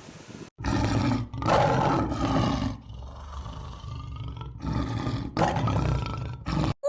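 A large animal roaring, several rough roars with short pauses between them.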